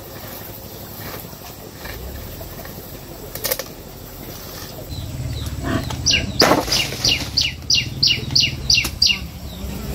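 A bird calling: a quick run of about eight falling high notes, about three a second, over a low rumble.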